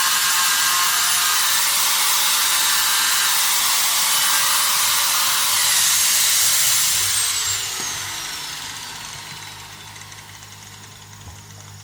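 Steady high hiss from a workshop tool, which begins winding down about seven seconds in with a slowly falling whine as it fades away.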